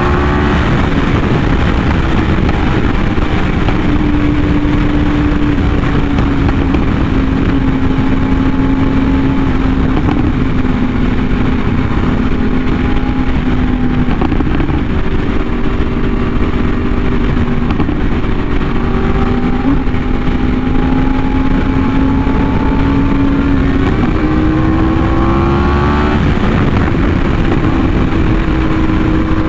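Yamaha R1M's crossplane inline-four running through an SC Project aftermarket exhaust while the bike is ridden at a steady cruise. The engine note drifts slowly lower, then rises as the throttle opens near the end.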